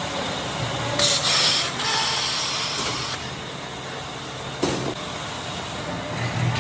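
Tyre-factory machinery running steadily. About a second in there is a short burst of air hiss, and a sharp clunk comes just before the five-second mark.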